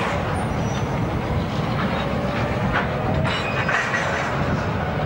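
Freight boxcars rolling slowly behind a diesel locomotive switching a rail yard: a steady rumble of wheels on track, with a few sharp clicks and clanks a little past the middle.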